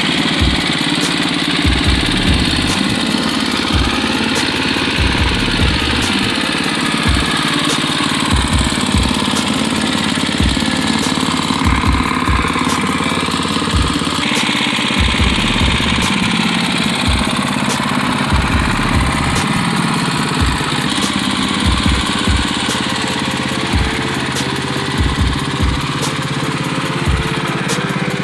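Predator 212cc single-cylinder four-stroke engine running steadily on a go-kart buggy, with frequent dull low thumps through the sound.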